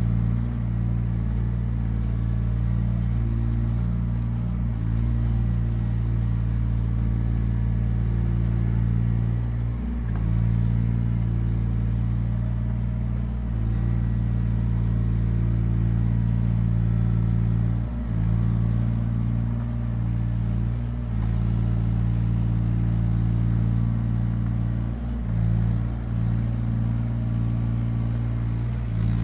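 Yanmar ViO17 mini excavator's three-cylinder diesel engine running steadily under throttle. Its pitch sags briefly about every four seconds, then recovers.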